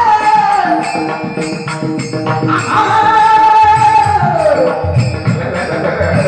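Marathi devotional song: a voice holds long sung notes that slide downward, over steady jingling hand percussion.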